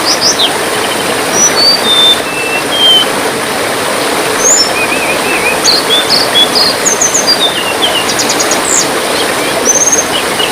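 Songbird chirping and whistling in many short, varied notes, some quick trills, over a steady rush of trickling water.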